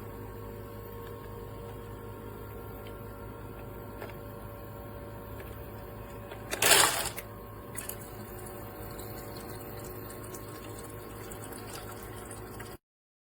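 Small countertop ice maker running with a steady mechanical hum, and a brief loud burst of noise about seven seconds in. The sound cuts off suddenly near the end.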